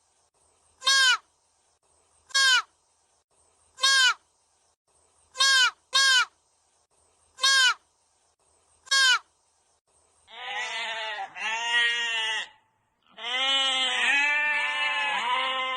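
Seven short, evenly spaced animal calls, about one every second and a half, followed from about ten seconds in by long, quavering bleats of livestock, repeated with little pause.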